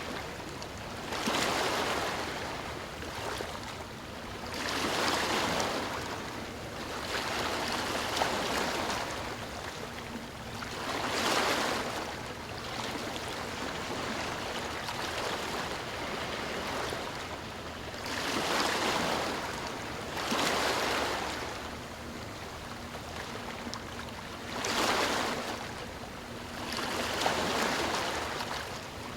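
Ocean surf: waves breaking and washing in, a rushing swell of water every few seconds, some surges louder than others.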